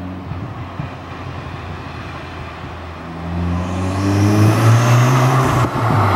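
VW Golf MK7's turbocharged four-cylinder engine accelerating hard through an Armytrix valvetronic exhaust with its valves closed, which keeps it quiet. The engine note climbs in pitch from about halfway through, drops briefly near the end at a gear change, then carries on.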